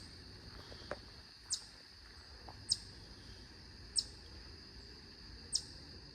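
An unidentified small bird repeating a short, high, falling chirp about every second and a half, over a steady high-pitched insect drone.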